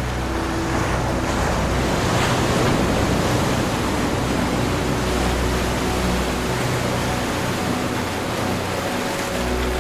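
Ocean surf washing in a steady hiss that swells to a louder wave about two to three seconds in, over soft sustained low background tones.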